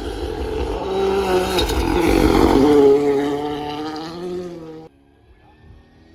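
Rally car engine at high revs passing close at speed, the pitch stepping between gears and swelling to its loudest around two to three seconds in, then cutting off abruptly near the end.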